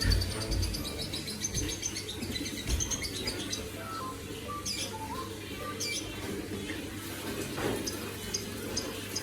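Small birds chirping: quick high chirps and short whistled notes repeating throughout, with a few low thumps in the first second.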